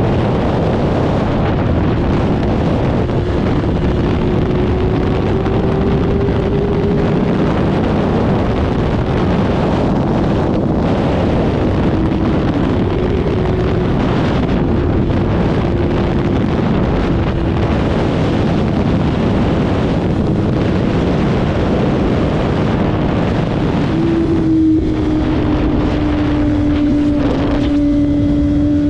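Motorcycle riding at speed: a steady roar of wind on the microphone over the engine's note, which holds mostly even and shifts a little in pitch now and then, coming through more clearly near the end.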